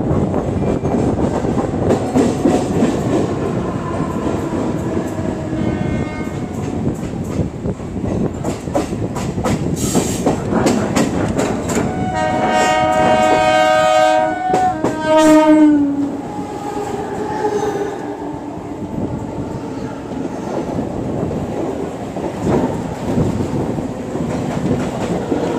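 Mumbai suburban electric local train running, heard from its open doorway: a steady rumble of wheels on rail with repeated sharp wheel clicks. About halfway through, a train horn sounds for about three seconds, its pitch dropping as it ends.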